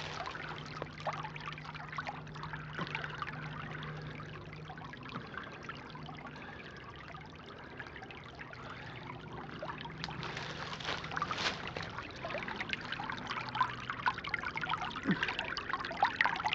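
Creek water trickling and gurgling, getting louder near the end.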